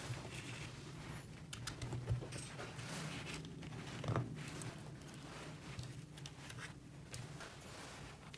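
Rustling, scraping and light clicks of small objects being handled, with louder taps about two and four seconds in, over a low steady hum.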